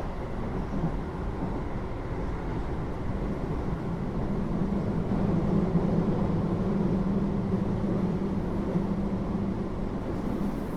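Keio 8000 series electric train (GTO-VVVF) running, heard from inside the car above the main controller: a steady rumble of wheels on rail, with a low hum that grows louder about four seconds in and eases off near the end.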